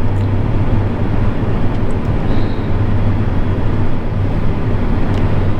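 Steady engine and road noise of a moving vehicle, with a constant low drone under an even rushing hiss.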